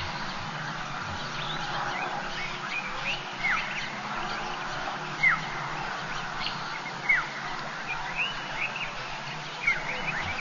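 Bird calls: a sharp falling whistle about every two seconds, four in all, with shorter rising chirps between them, over a steady hiss.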